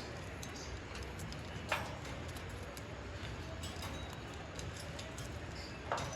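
Scattered light clicks and taps over a steady low hum, with two louder clicks, one a little under two seconds in and one near the end.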